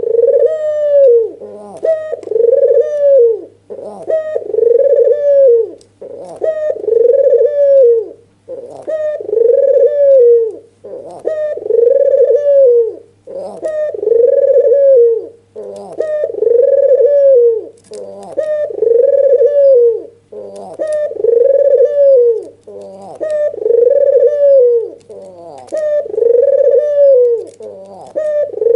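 White red-eyed puter dove (albino Barbary dove) giving its excited bowing coo over and over. Each coo rises and falls and comes about every two seconds, as a lure call for other doves.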